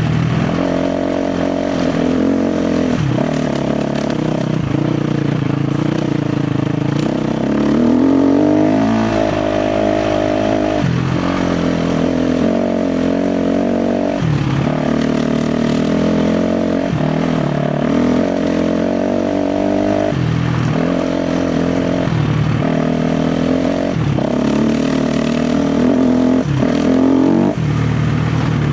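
KTM 350 XC-F's single-cylinder four-stroke engine under a rider's throttle: revs rise and fall continuously, with the throttle chopped briefly several times before it picks up again.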